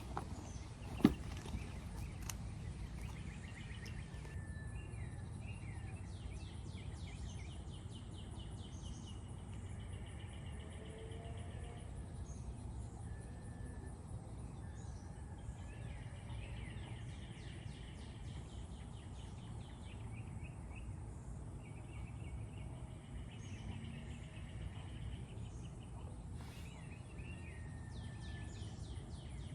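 Small birds chirping and calling, short repeated notes over a steady low rumble, with a single knock about a second in.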